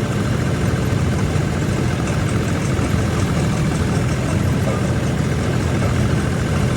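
Combine harvester's diesel engine running steadily, heard from inside the cab as a dense, even low drone.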